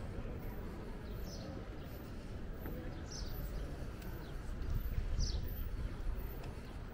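Outdoor city ambience: a steady low rumble under the scene, with a bird giving a short, high, falling chirp about every two seconds.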